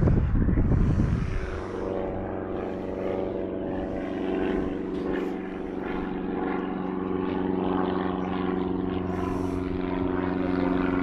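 Wind buffeting the microphone for about the first second and a half, then a steady, evenly pitched engine drone that grows slightly louder toward the end.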